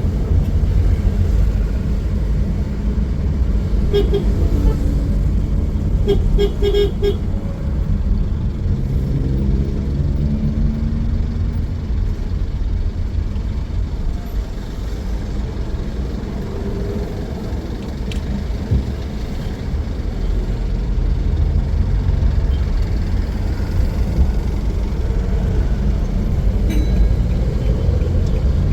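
City street traffic with a steady low rumble of engines, and car horns tooting: a short toot about four seconds in, then a quick series of toots a couple of seconds later.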